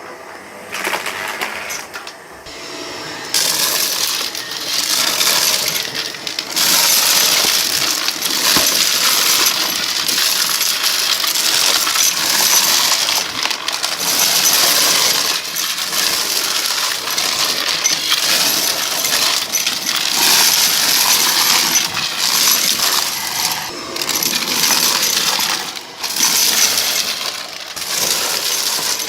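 Vacuum cleaner sucking up a mix of small hard debris off a rug, the pieces clattering and rattling through the machine. It gets louder about three seconds in.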